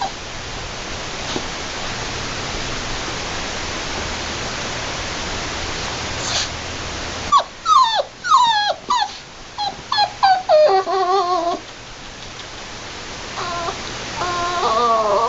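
Puppy whimpering and yipping: a quick string of short, high-pitched cries sliding down and up in pitch, then a longer wavering whine, starting about halfway through after a steady hiss.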